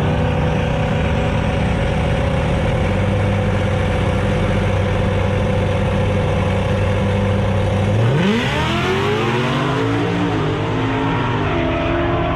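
Drag-racing car engine held at steady revs, then launching about eight seconds in, its pitch climbing sharply as it accelerates away.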